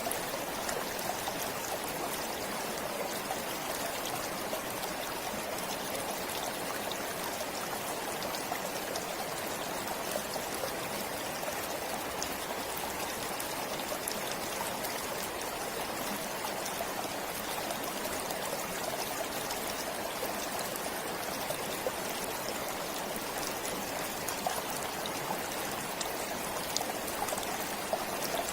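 A forest stream flowing steadily over stones, an even rush of water with small splashes and trickles.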